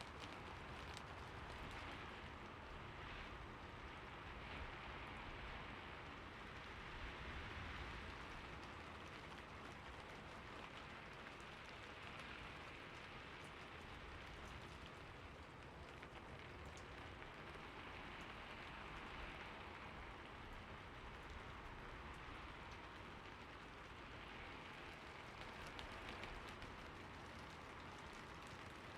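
Soft, steady rain falling: an even hiss with scattered small drop ticks, swelling gently every few seconds.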